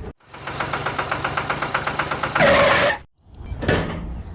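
An engine running with a rapid, even pulse that swells louder just before it cuts off abruptly, about three seconds in.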